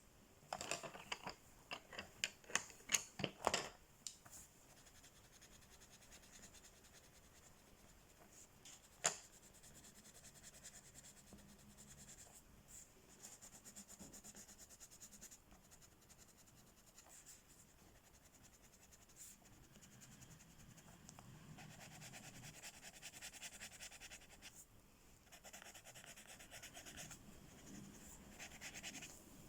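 Faint rubbing and scratching of colouring strokes on paper, growing steadier and stronger near the end. A quick run of sharp clicks or taps comes in the first few seconds, with one more about nine seconds in.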